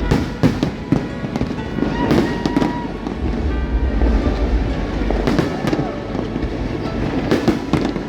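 Fireworks bursting in the sky, sharp bangs and crackles coming in clusters near the start, around two seconds in, around five and a half seconds and near the end, over background music.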